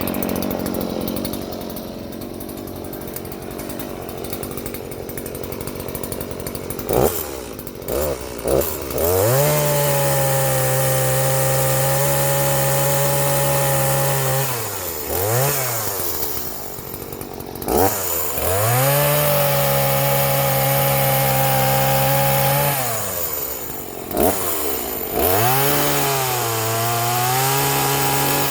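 Stihl two-stroke chainsaw engine, running low at first, then blipped and held at full throttle for about five seconds, dropping back and revving up again twice, with short throttle blips near the end.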